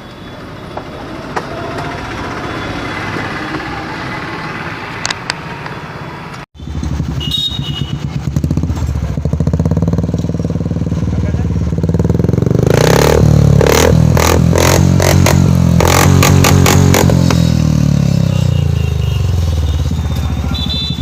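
Royal Enfield 350 single-cylinder engine running through an aftermarket exhaust, loud and steady, with a quick run of sharp throttle blips and exhaust pops about two-thirds of the way through.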